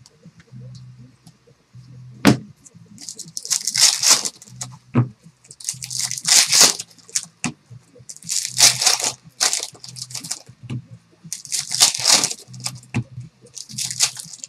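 Trading-card pack wrappers being torn open and crinkled: about five separate bursts of crackling rustle, each lasting around a second, with a sharp click a couple of seconds in.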